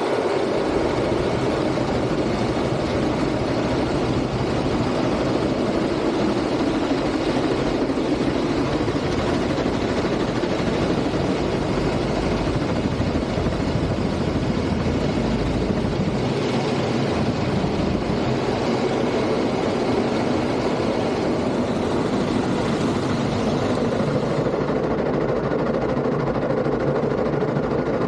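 Automatic car wash in operation: its machinery runs with a steady, loud, unbroken noise.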